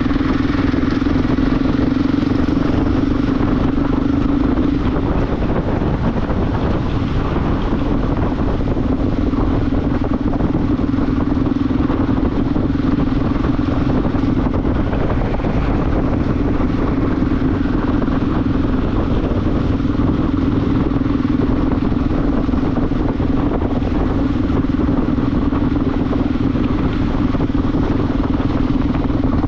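Motorcycle running at a steady cruise, its engine note holding one pitch over a constant rush of wind noise, easing briefly about five and fifteen seconds in.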